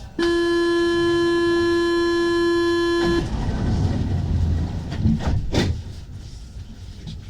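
Paris Métro door-closing warning buzzer: one steady, loud tone for about three seconds that cuts off sharply. It is followed by the rumble of the doors sliding shut and two knocks as they close.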